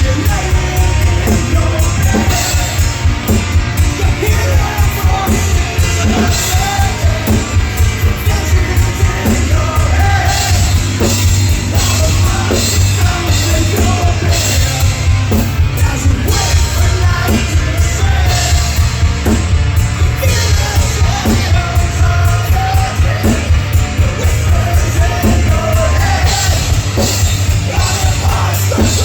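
Live heavy rock band playing loud, with a drum kit keeping a fast, driving beat under dense amplified instruments.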